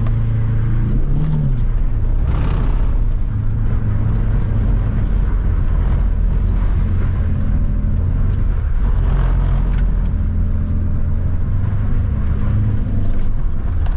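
Nissan 350Z's VQ V6 engine running hard at a fairly even pitch during a drift run, with short bursts of hiss a couple of seconds in and again around the middle.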